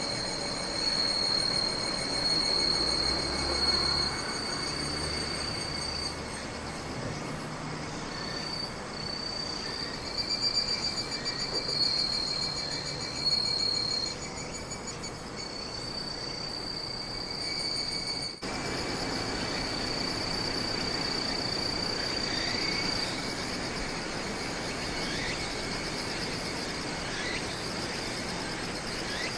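Crickets chirping in a steady high-pitched chorus over a low background rumble, with a brief break about two-thirds of the way through.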